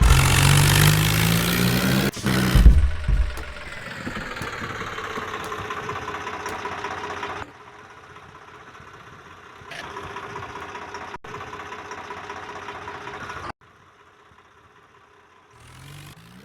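Tractor engine running, loud for the first few seconds. Its pitch then falls and it runs on more quietly, broken by several abrupt cuts, and is nearly gone in the last few seconds.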